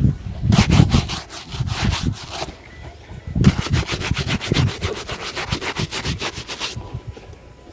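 A leather shoe being buffed during a shoe shine, with rapid back-and-forth rubbing strokes, about ten a second, in two spells with a short pause between them.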